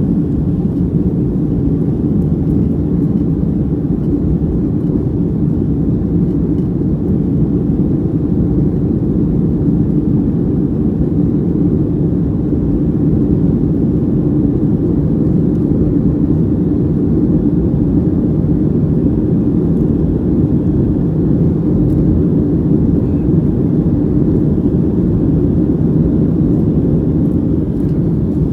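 Boeing 757-200 at takeoff power, its engines and rushing air heard from inside the cabin as a steady, deep noise with no changes.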